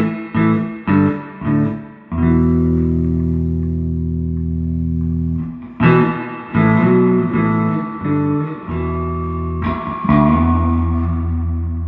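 Electric bass guitar played through a 1973 Fender Twin Reverb Silverface amp with its spring reverb turned on: a few quick plucked notes, a long held low note, another run of notes, then a second held note near the end.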